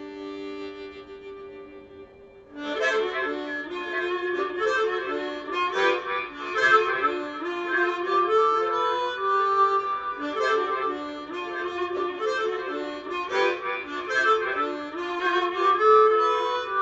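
Blues harmonica playing an instrumental break. A held chord fades out over the first two seconds or so, then the harp comes back in loudly with a rhythmic run of chords and bent notes.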